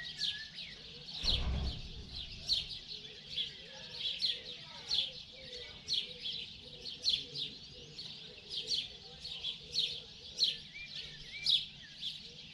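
Morning birdsong: short high chirps repeating steadily, about two a second, with a few softer calls beneath. A brief low rumble comes about a second and a half in.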